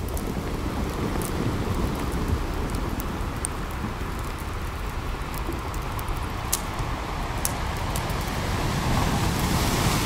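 Campfire crackling with scattered sharp pops over a steady rushing wash of ocean surf, the surf swelling near the end.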